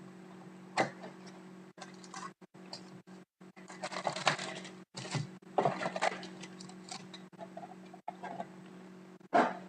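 Trading card packaging and cards being handled: scattered clicks and taps, with two short stretches of rustling in the middle and a sharp louder click near the end, over a steady low hum.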